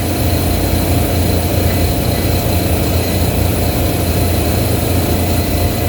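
Steady, loud drone of running rooftop HVAC equipment, a low hum with a faint steady whine above it, holding even throughout.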